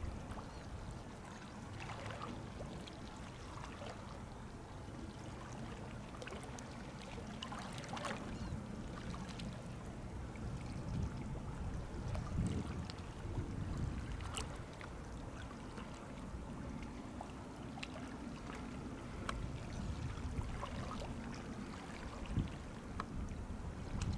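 Low, steady rumble of a passing container ship, with a noisy wash of water over it and a few scattered faint clicks.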